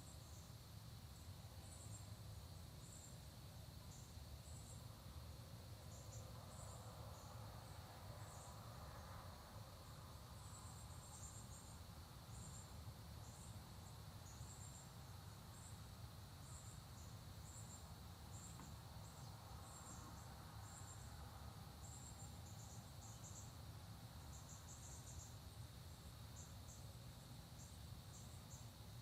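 Faint early-autumn insect chorus: crickets chirring in a steady high drone, with short, very high chirps repeating irregularly, over a low steady rumble.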